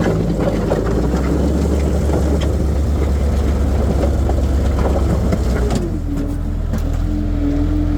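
Skid steer loader engine running steadily as the machine works a gravel pile, with scattered clicks and knocks. About six seconds in the engine note drops and settles at a new steady pitch.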